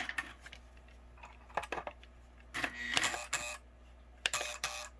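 Three short bursts of mechanical clicking, about a second and a half apart, over a faint steady hum.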